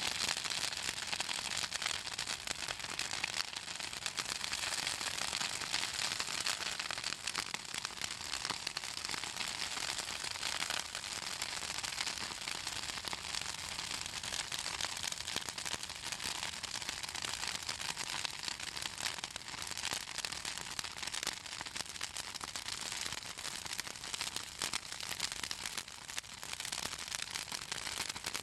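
Southern magnolia branches burning in an open fire, their oily wood crackling and popping continuously in dense quick snaps.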